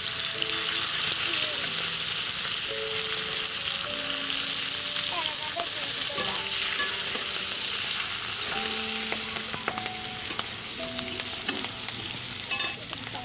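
Chickpeas sizzling in hot oil in a metal kadai, freshly tipped in, while a metal spatula stirs and scrapes them around the pan. The sizzle is loud and steady and eases a little after about ten seconds, with a few sharp scrapes of the spatula near the end.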